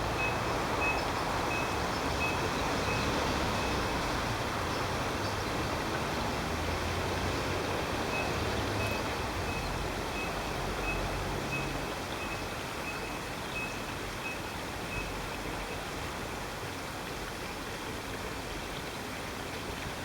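Steady rushing of stream water with a low rumble underneath, easing slightly in the second half. A faint high ticking, about three ticks a second, comes through for a few seconds at the start and again around the middle.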